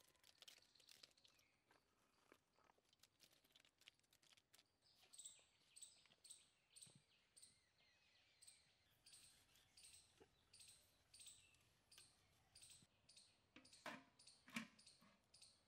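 Faint outdoor scene: a bird repeats a short, high, falling chirp about twice a second. Small clicks and rustles sound in the first few seconds, and near the end come two louder metallic clunks as a metal lid is set on the iron karahi.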